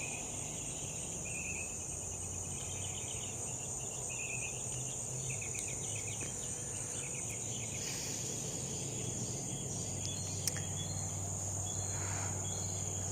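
Steady high-pitched drone of a cricket chorus, with short high chirps now and then and a faint low hum underneath.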